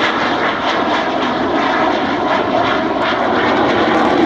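Eurofighter Typhoon's twin jet engines at high power: a loud, steady rushing noise as the jet accelerates into a vertical climb.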